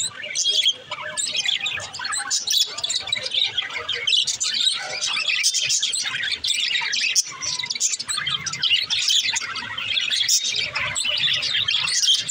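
Several budgerigars chirping and warbling at once, with a continuous run of quick overlapping chirps.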